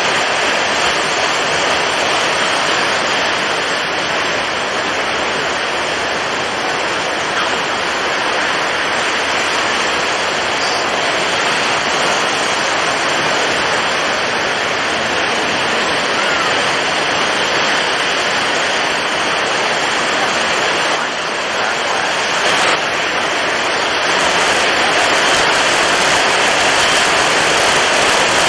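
Storm at sea: strong wind and heavy waves making a dense, steady rush of noise. It dips briefly about twenty-one seconds in and grows louder and brighter near the end.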